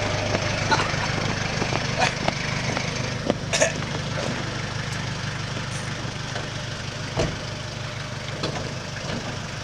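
Vehicle engine running steadily in a low hum, with scattered sharp clicks and knocks.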